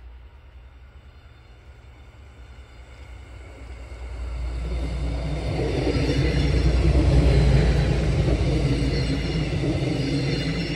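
GKB diesel multiple unit passing close by. The rumble of its engine and wheels on the rails builds from about four seconds in, is loudest a little past halfway as the cars go by, and begins to fade near the end.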